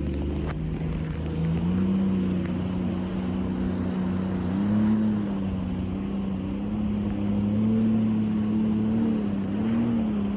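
Motorized watercraft engine running steadily, its pitch stepping up about a second and a half in and rising briefly twice more, with wind and water noise.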